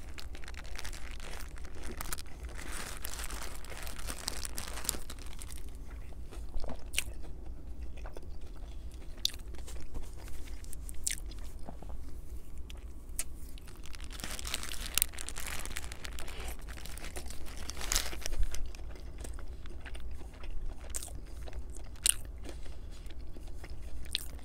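Close-miked bites and chewing of a Burger King crispy chicken sandwich: the fried breading crunches in bursts a couple of seconds in and again about midway, with sharp wet mouth clicks in between.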